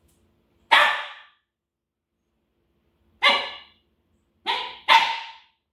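A dog barking: four short barks, one about a second in, then three in quick succession in the second half.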